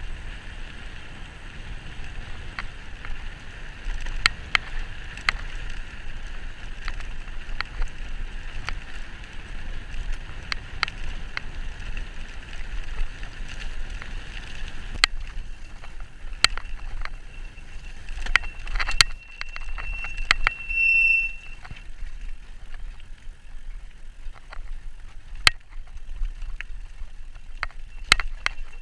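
E-bike riding along a rough towpath: a steady rumble from the tyres and air, with frequent sharp clicks and rattles from bumps. A steady high whine runs through the first half and then fades. About two-thirds of the way in, a brief high squeal.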